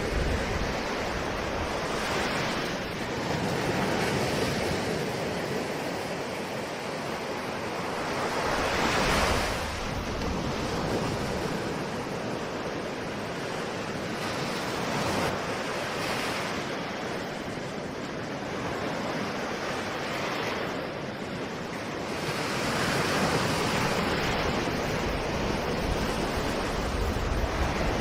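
Ocean surf: a continuous wash of waves breaking and receding, swelling and ebbing every several seconds, with one stronger surge about nine seconds in.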